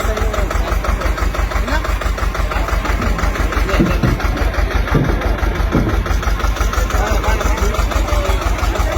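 Tractor engine running with a steady, rapid low chug.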